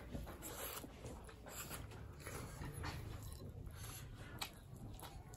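Close-miked eating sounds: quiet chewing and mouth smacks from people eating rice and greens by hand, with a few soft clicks scattered through.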